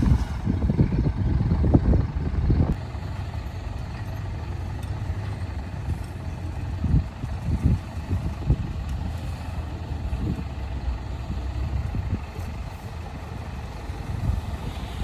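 Heavy diesel earthmoving machinery running, a low rumble that is louder and uneven for the first few seconds, then steadier with occasional swells.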